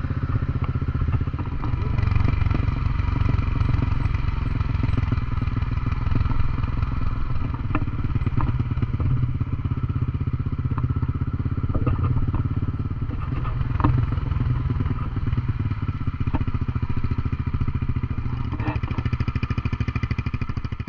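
Honda CB150X single-cylinder motorcycle engine running steadily in gear down a slope, held back by engine braking, with a few sharp clicks along the way.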